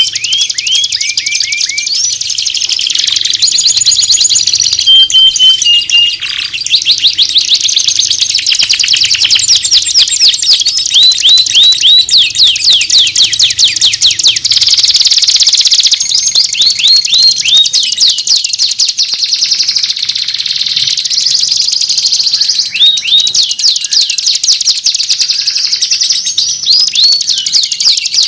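Songbird song: a loud, continuous stream of rapid chirps and trills, with quick runs of four or five downward-slurred whistled notes repeated now and then.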